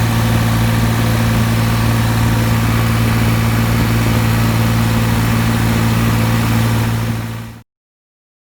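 New Holland 3630 tractor's diesel engine running steadily at a constant speed, a low even hum with no revving; the sound fades and cuts off suddenly near the end.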